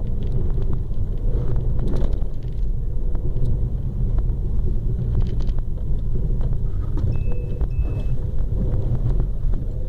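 Renault Mégane RS's turbocharged four-cylinder engine pulling steadily uphill, heard from inside the cabin, over a constant low rumble of tyres on packed snow.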